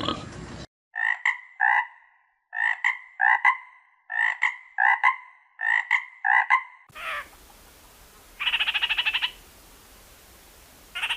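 Frogs calling: a run of about eleven short croaks in pairs and threes, then, over a different background, a rapid pulsing trill about a second long, with a second trill starting near the end.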